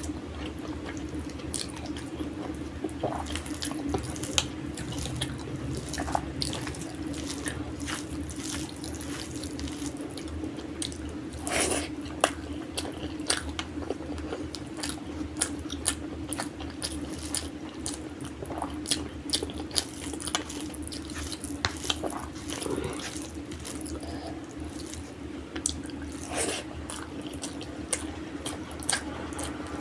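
Close-up eating sounds: wet chewing and smacking mouth clicks as rice biryani and egg are eaten, scattered irregularly throughout. A steady low hum runs underneath.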